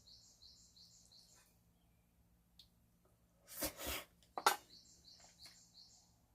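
A bird singing a quick run of high rising notes, about four a second, at the start and again near the end. A little past the middle come two short, loud noises that are louder than the song.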